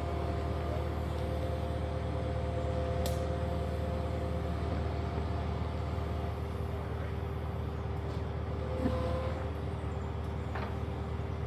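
Skid steer engine running steadily, with a brief rise about nine seconds in.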